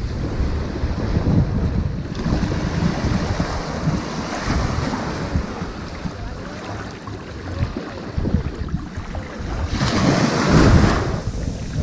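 Ocean waves washing onto a sandy beach in a steady wash of surf, with one louder wave breaking near the end. Wind buffets the microphone with a low rumble.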